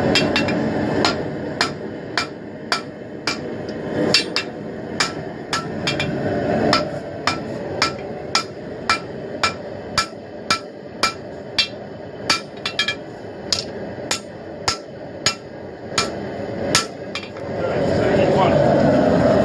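Hand hammer striking a hot steel knife blade on an anvil in an even rhythm, a little under two blows a second, each blow ringing briefly. Near the end the hammering stops and a steady rushing noise rises.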